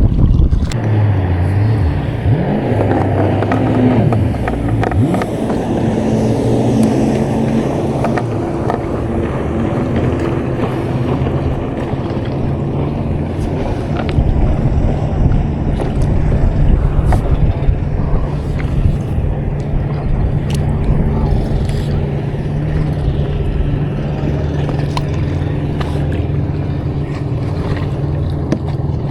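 A boat engine running steadily, its pitch rising and falling a few seconds in, over wind and water noise with a few sharp knocks.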